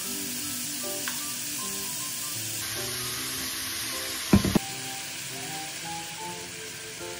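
Julienned burdock and carrot strips sizzling steadily as they stir-fry in a hot frying pan, with a quick clatter of a few sharp knocks a little past four seconds in.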